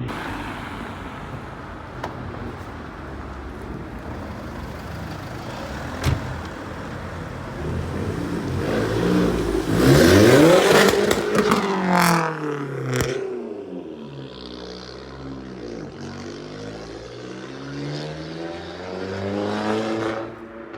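Car engine revving and accelerating past, loudest about halfway through, its pitch climbing and then falling away. A lower engine note follows, sinking and then rising again near the end.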